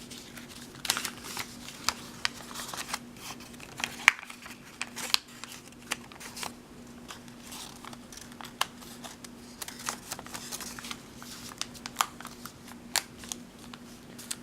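A square sheet of origami paper being folded, flattened and creased by hand: irregular short crisp rustles and snaps of the paper.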